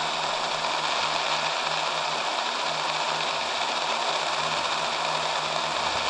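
Steady static hiss from a software-defined radio receiver tuned off-channel on the 2-meter ham band, over a faint low hum.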